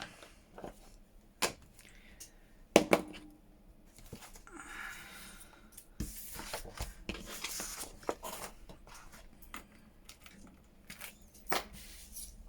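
Paper being handled at a craft desk: rustling and scraping sounds, with a few sharp knocks of small items set down on the table, the loudest about three seconds in.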